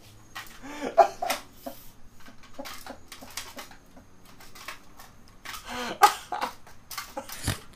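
Short bouts of a man's laughter mixed with scattered knocks and clatter.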